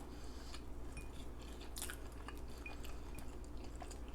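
A person chewing fast food close to the microphone, with scattered soft wet clicks and smacks of the mouth.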